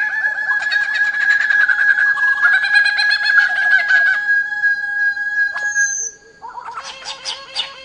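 Birds calling in quick, repeated chirping notes over a steady held high tone. The tone cuts off about six seconds in, and a new burst of chirps starts shortly after.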